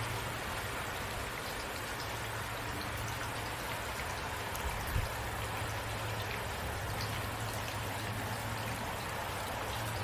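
Steady rain falling, a dense, even hiss of drops, with a steady low hum underneath and a brief low thump about halfway through.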